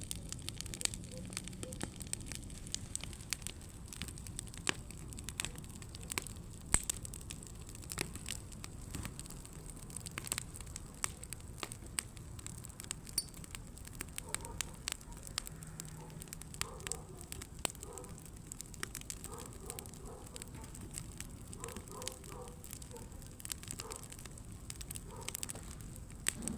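Campfire crackling, with irregular sharp snaps and pops over a soft steady hiss.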